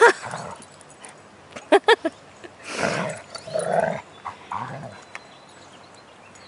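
Alaskan Malamutes vocalizing while play-wrestling: a few short yips about two seconds in, then rougher grumbling sounds, dying away after about five seconds.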